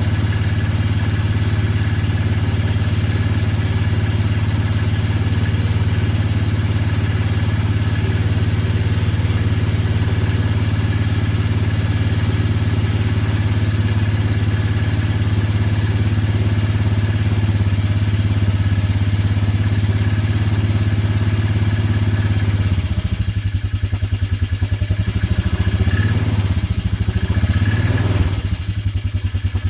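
Motorcycle engine running just after a cold start, warming up: a steady, fast idle that, about two-thirds of the way in, drops into an uneven, pulsing idle with a couple of brief rises in revs near the end. The rough running is the cold engine being 'very cranky'.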